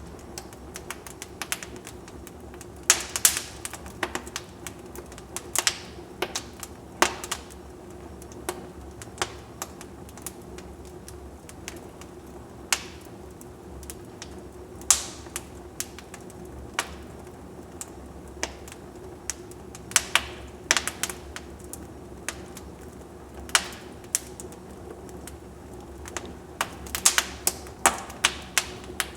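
Wood fire in a fireplace crackling: irregular sharp pops and snaps, sometimes in quick clusters, over a steady quiet background.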